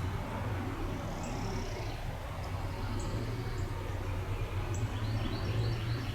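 Several short, high bird chirps every second or so over a steady low rumble.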